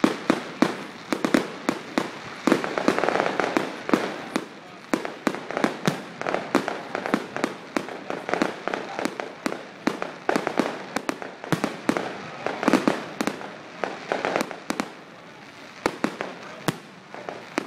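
Fireworks going off in a rapid, irregular string of sharp bangs and crackles, several a second, with busier bursts about three seconds in and again near thirteen seconds.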